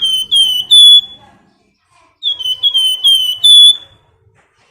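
Flamboyan songbird giving its high whistled 'nyiul' call: two loud runs of about five quick piping notes, each run lasting about a second and a half, the second starting about two seconds in.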